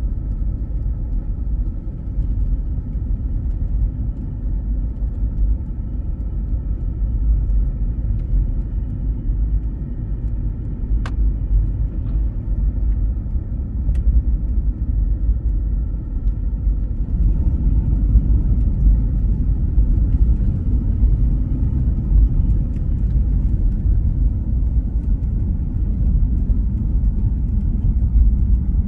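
Steady low rumble of a car's engine and tyres heard from inside the cabin while driving slowly on a snow-covered highway, with two faint clicks in the middle.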